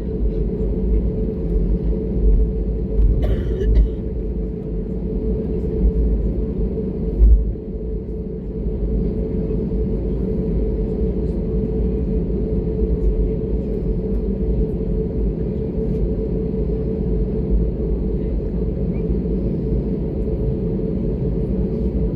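Steady airliner cabin noise inside an Airbus A320neo: a low rumble with a steady hum. There is a brief sharp click about three seconds in and a low thump about seven seconds in.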